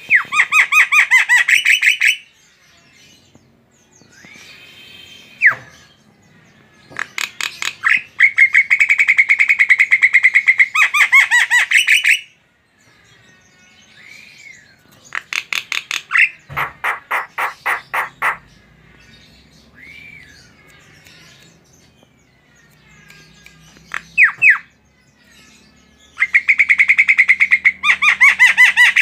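Javan myna (jalak kebo) singing: four loud bouts of fast, rattling repeated notes, with short single whistled slurs in the pauses between them.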